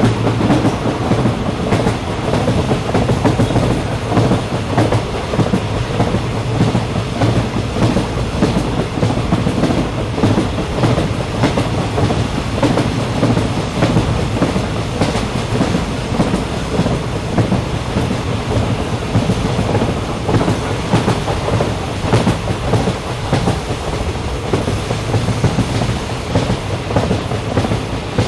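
Train running along the track, heard on board: a steady rumble of wheels and carriage, with faint clicks of the wheels over the rails.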